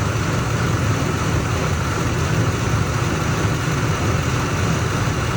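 2003 Ford Expedition V8 engine idling steadily during warm-up, with no belt or pulley chirp.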